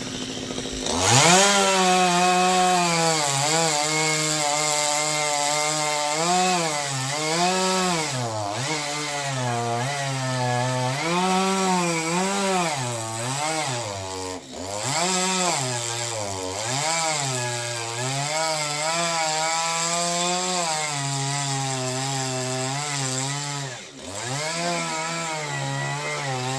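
Chainsaw cutting into a tree: the two-stroke engine is throttled up about a second in, and its pitch keeps dipping and recovering as the chain loads up in the wood and frees again. It eases off briefly twice, in the middle and near the end.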